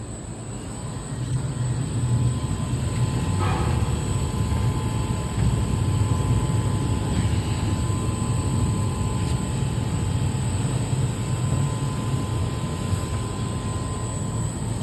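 Automatic horizontal foam block cutting machine running: a steady low hum with a faint steady whine, building up over the first couple of seconds, and a short knock about three and a half seconds in.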